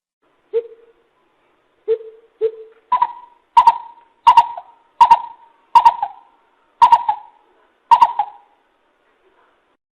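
Coucal (bìm bịp) hooting: a few low, spaced notes, then a run of about eight louder, higher hoots, a little under a second apart.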